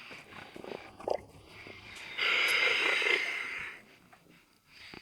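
Diver breathing through a scuba regulator: one loud hiss starting about two seconds in and lasting about a second and a half, with scattered small clicks around it.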